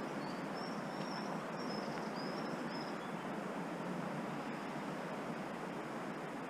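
A bird singing a run of short, high, thin notes over the first three seconds, above a steady rushing noise of water.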